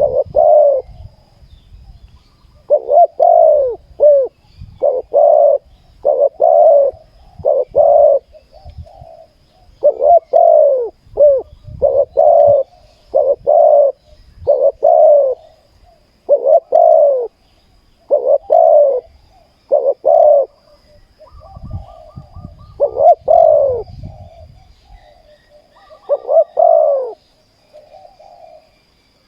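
Spotted doves cooing: a long run of deep, repeated coo phrases, about one every second, with a couple of short pauses.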